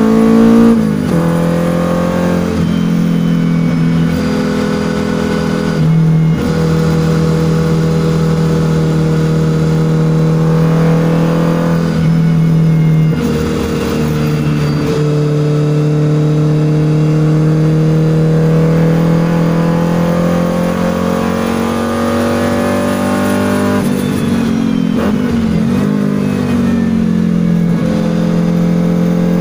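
Toyota 4A-GE 20-valve four-cylinder in a KP61 Starlet, heard from inside the cabin, pulling hard on track with its pitch climbing steadily in each gear. Brief breaks for upshifts come about 1, 6 and 13 seconds in, and around 24 to 26 seconds the pitch drops and blips as it brakes and downshifts before pulling again.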